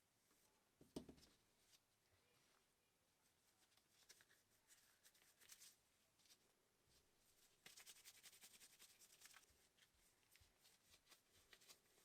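Faint workbench handling sounds: light clicks, a soft knock about a second in, and a stretch of scratchy scraping strokes about eight to nine seconds in.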